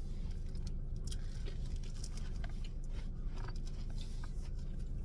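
Steady low rumble inside a car's cabin, with faint scattered clicks and rustles of food and packaging being handled.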